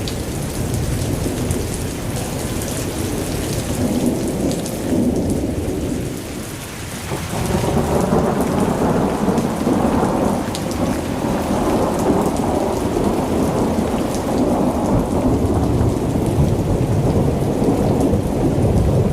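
Thunderstorm: steady rain with rolling thunder. The thunder rumble eases briefly, then swells heavier about seven seconds in and keeps rolling.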